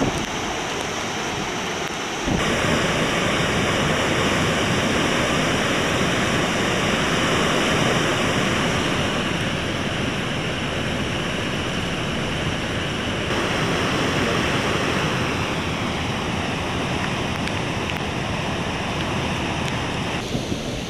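Swollen river in typhoon flood, its water rushing in a steady dense noise; the sound shifts abruptly about two, thirteen and twenty seconds in as the shots change.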